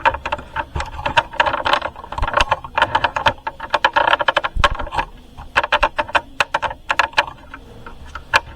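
Irregular rattling and clicking, several sharp clicks a second, over a low rumble.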